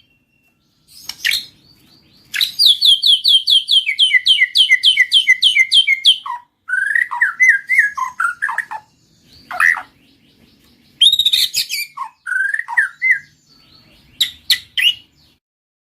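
White-rumped shama singing in separate phrases of whistled, gliding notes. Near the start one phrase is a fast run of about five repeated notes a second lasting some four seconds, and sharp chattering notes follow later.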